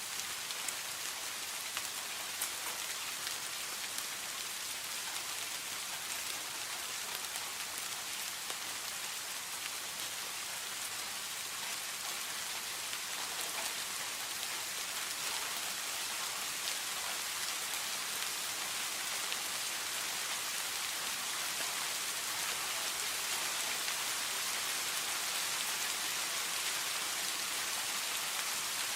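Steady rain falling: an even hiss with scattered individual drop ticks, growing a little louder in the second half.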